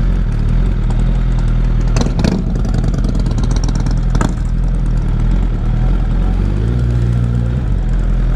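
Honda CBR1000RR sport bike's inline-four engine running at low revs while riding slowly. A few short sharp clicks come about two and four seconds in.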